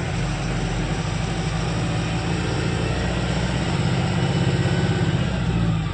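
Truck engine running steadily, a low hum that swells slightly about four to five seconds in.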